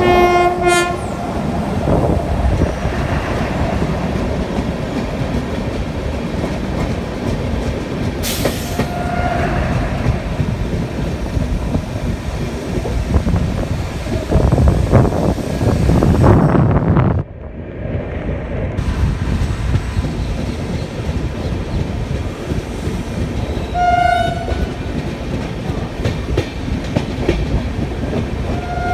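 Shatabdi Express passenger train running, with the steady rumble and rattle of the wheels on the track. Short train horn blasts sound at the start, about nine seconds in and about 24 seconds in. The running noise grows louder from about 14 seconds in, then drops away suddenly just after 17 seconds.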